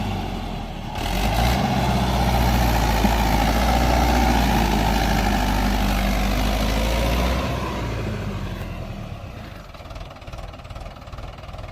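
Mahindra 585 XP Plus tractor's diesel engine running steadily under load on a climb. About seven and a half seconds in it falls away and runs quieter.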